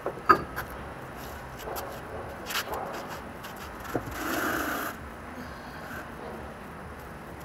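Workshop handling noise from a car wheel taken off a jacked-up car: a sharp knock near the start, scattered lighter knocks, then a scrape lasting about a second, about four seconds in, as the wheel is moved and slid under the sill.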